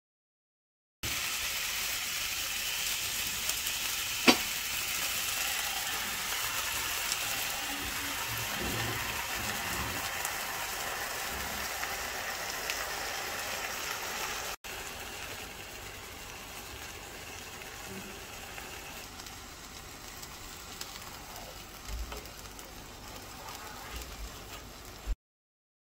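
Zucchini pancake frying in oil in a nonstick pan: a steady sizzle, with one sharp click about four seconds in. About halfway through the sizzle drops to a quieter level.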